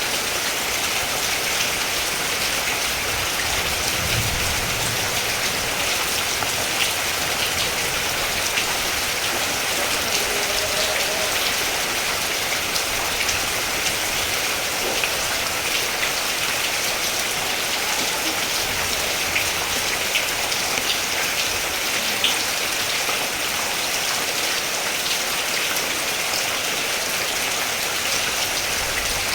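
Steady rain: an even hiss thick with small, closely packed drop taps.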